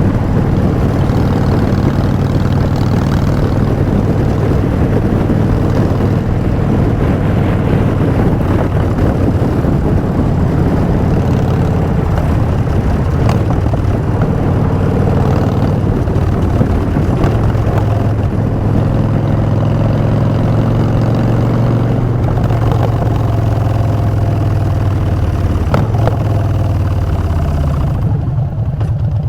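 Harley-Davidson Street Bob's Twin Cam V-twin running through Vance & Hines Short Shots exhaust at a steady pace. Near the end the engine note falls as it slows.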